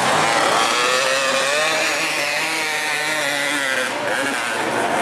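Dirt bike engines revving hard, their high-pitched buzz rising and falling as the throttle opens and closes.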